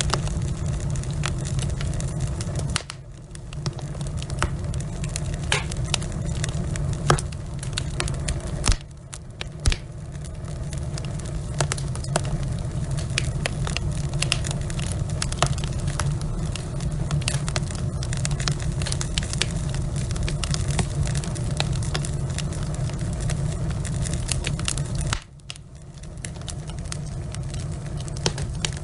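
Log fire burning in a fireplace: a steady low rumble of flame with frequent sharp crackles and pops from the burning wood. The rumble drops away briefly three times, about 3, 9 and 25 seconds in.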